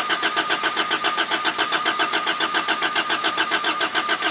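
Toyota 4A-GE four-cylinder engine turning over on the starter motor with a steady, even cranking rhythm and starter whine, without catching. This is consistent with the owner's ongoing no-spark problem.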